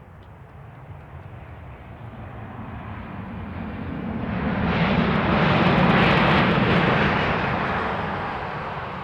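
Jet engines of an ANA Boeing 787-8 at takeoff power as it passes. The noise swells, peaks about five to seven seconds in, then begins to fade.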